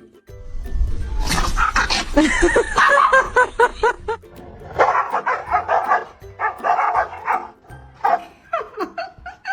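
A dog barking over and over in quick runs, starting about a second in, pausing for a moment past the middle, then a few more barks near the end; background music underneath.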